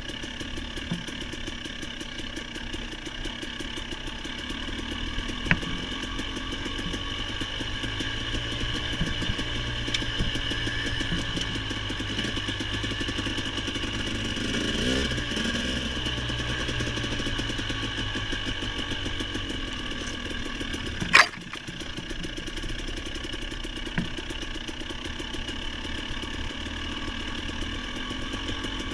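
Motorcycle engine running steadily while riding, its pitch wavering a little around the middle. A single sharp knock stands out about two-thirds of the way through, with a few fainter clicks elsewhere.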